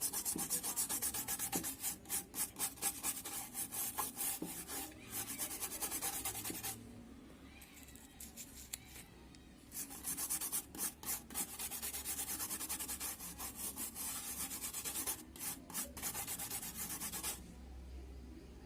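Circuit board being scrubbed clean of flux around a freshly soldered IC, in quick rubbing strokes. It comes in two stretches of several seconds each, with a pause of about three seconds between them.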